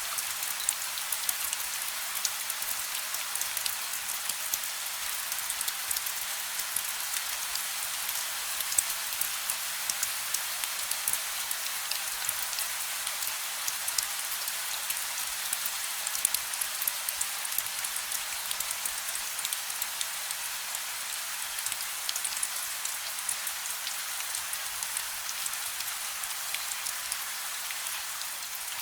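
Steady gentle rain with no thunder: an even hiss dotted with fine drop ticks, the odd louder drop standing out.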